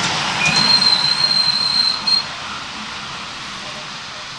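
Miniature railway train running away round a curve: a steady rumble of wheels on rails fading out, with a thin high squeal lasting about a second and a half, typical of wheel flanges on the curve.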